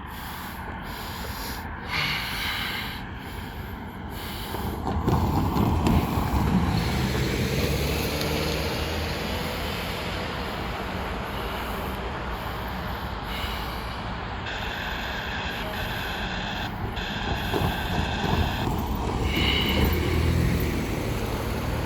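An approaching train's locomotive horn sounds over a steady low rumble. It blows several long blasts with short breaks from about two-thirds of the way in, then a brief one near the end.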